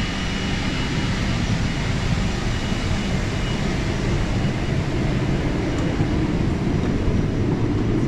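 Steady low rumble and rushing noise of a moving vehicle, growing slightly louder.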